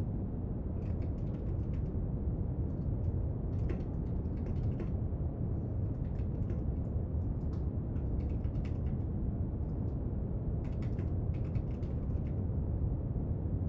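Steady brown noise, with a few faint short runs of small clicks and scratches from desk work laid over it at intervals.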